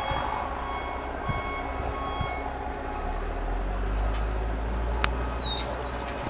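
Heavy snow-plowing machine's engine running, with a reversing alarm beeping; the engine rumble grows louder about halfway through.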